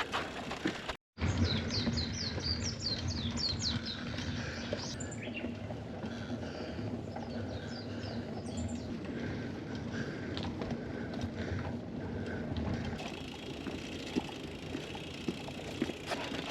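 A wild bird singing a fast run of short, high chirps, with a few more notes later, over a steady low rumble of outdoor noise.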